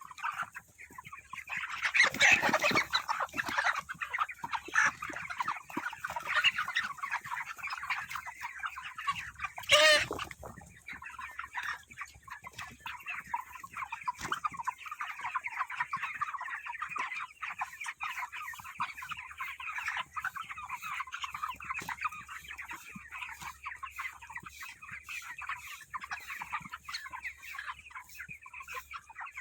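A flock of chickens clucking and chattering continuously, with one loud, pitched call rising above the flock about ten seconds in.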